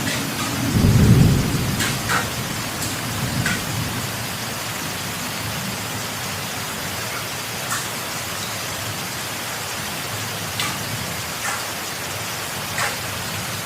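Heavy rain falling steadily during a thunderstorm, with a low rumble of thunder about a second in that dies away within a couple of seconds. A few sharp taps stand out against the rain now and then.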